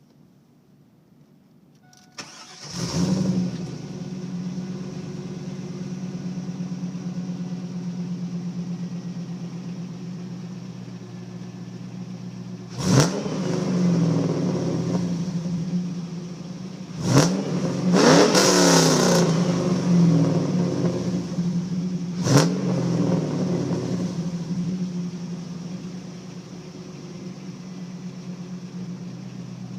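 2000 Pontiac Trans Am WS6's 5.7 L LS1 V8, with Mac mid-length headers, an off-road Y-pipe and a Borla exhaust, cranks and fires about two seconds in, flares, then settles to a steady idle. Around the middle come several quick throttle blips, one held a little longer, each rising sharply and dropping back to idle.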